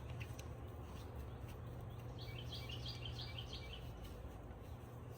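A small bird singing a quick run of high chirps about two seconds in, over a steady low background hum.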